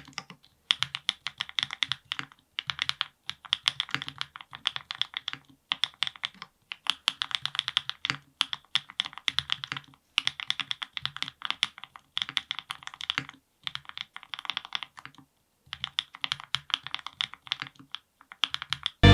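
Typing on a NEO70 custom mechanical keyboard with lubed Gateron Milkshake linear switches, a polycarbonate plate, full foam and GMK keycaps. Fast runs of keystrokes come in short bursts with brief pauses between them.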